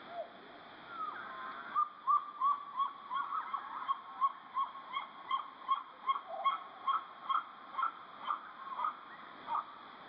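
A bird calling a long series of short, evenly spaced notes, about three a second, starting about two seconds in, over a faint steady hiss.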